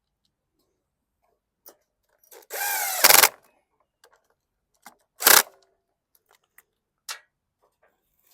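Cordless drill/driver running briefly, its motor pitch shifting as it drives a fastener, ending in a sharp clack. A second loud metal clack follows a couple of seconds later, with a few small knocks of tools and parts.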